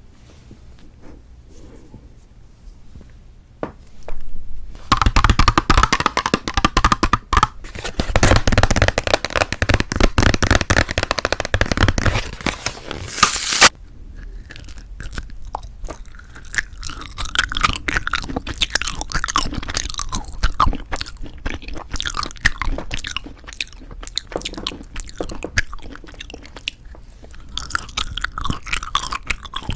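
Close-miked mouth sounds of novelty jelly candy being eaten. A loud, dense stretch of crunching begins about five seconds in and ends with a sharp snap, followed by softer, steady wet chewing.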